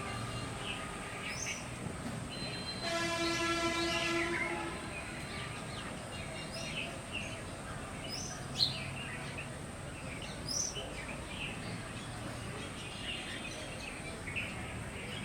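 Bulbuls calling in short, high chirps throughout, while a steady horn blows for about two seconds starting about three seconds in.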